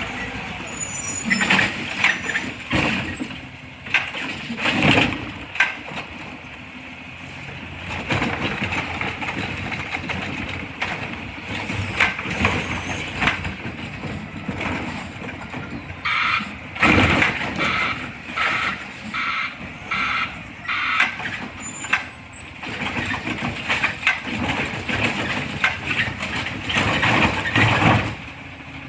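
Garbage truck at work: engine running, with sudden loud hisses and bangs, and a backup alarm beeping about every two-thirds of a second for several seconds past the middle.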